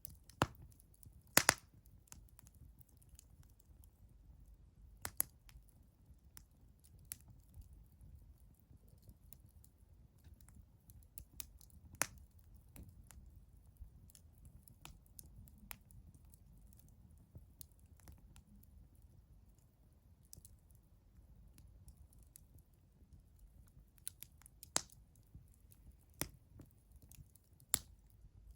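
Wood fire crackling: irregular sharp pops and snaps over a faint low rumble, with the loudest snaps about a second and a half in and another cluster near the end.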